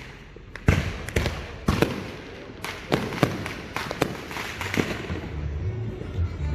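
Fireworks going off: a string of sharp bangs, some close together and some over a second apart, with crackling between them.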